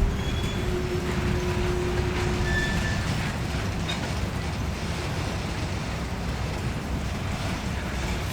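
Freight train rolling slowly during a switching move, a steady rumble, with wind on the microphone; a faint steady tone fades out about three seconds in.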